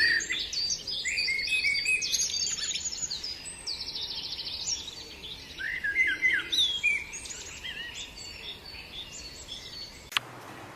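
Small birds chirping and singing: many quick, varied chirps and a fast trill, ending with a sharp click about ten seconds in.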